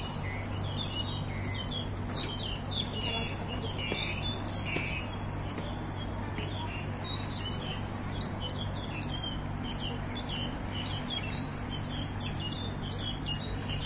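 Small birds chirping, many short calls one after another throughout, over a steady low hum.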